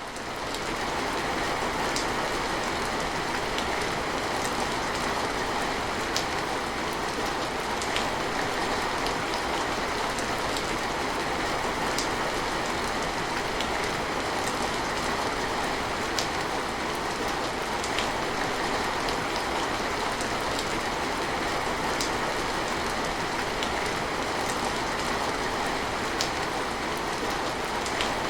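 Steady rain falling, an even hiss with occasional sharper drop ticks every couple of seconds; it fades in at the very start.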